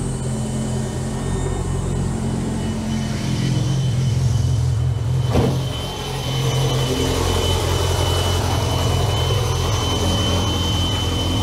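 Turbocharged four-cylinder engine of a Renault Clio race car idling steadily, the idle a little too high because it still needs mapping. A steady high whistle from the turbo joins in about four seconds in, and there is a single knock about five seconds in.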